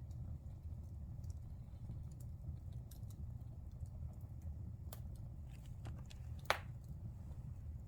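Fire crackling in a fireplace: a steady low rumble with scattered small crackles and one loud, sharp pop about six and a half seconds in.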